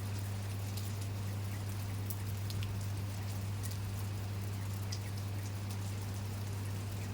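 Steady rain falling, with scattered drops ticking close by, over a steady low hum.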